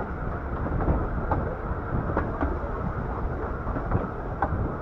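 Bure Valley Railway 15-inch gauge train running along the line, heard from the leading carriage: a steady rumble of wheels on track with sharp, irregular clicks.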